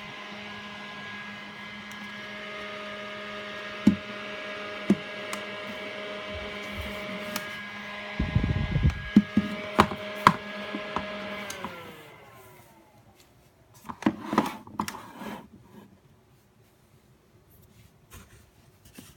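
Nail dust collector's fan motor running with a steady hum, with several clicks and knocks of handling; about twelve seconds in it is switched off and the fan winds down, its pitch falling away. Brief rustling handling follows.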